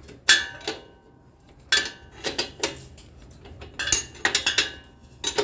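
Metal wrench clinking and tapping against the rear-axle chain-adjuster nuts and bolts of a small motorcycle as they are tightened, in a series of sharp irregular clinks, some briefly ringing.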